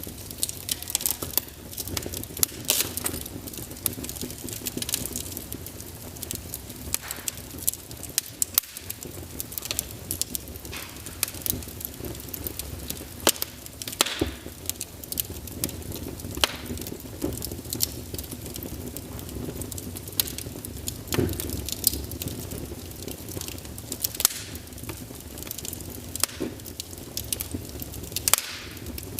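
Firewood burning in a fireplace: irregular sharp crackles and pops over a steady low rumble of the flames.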